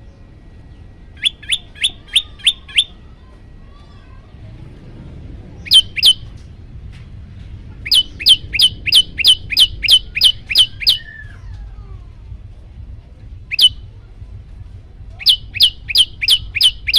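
Prenjak lumut (a prinia) calling in loud bursts of sharp, downward-sweeping notes at about four a second: a run of six, a pair, a long run of about a dozen, a single note, then another run near the end.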